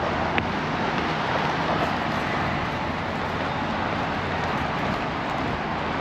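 Steady vehicle and traffic noise: a continuous low rumble with a hiss over it, with one brief tick under a second in.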